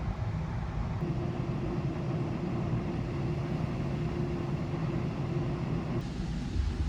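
Steady low rumble of a large car ferry under way, heard on board, with a faint steady hum coming in for a few seconds near the middle.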